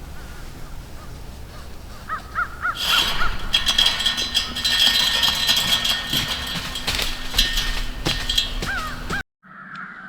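Birds calling, at first a few short calls, then a loud dense chorus of many overlapping calls from about three seconds in, which cuts off suddenly near the end.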